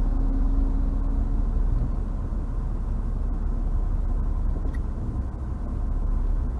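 Car road and engine noise heard inside the cabin while driving: a steady low rumble, with a faint hum that fades out in the first second and a half.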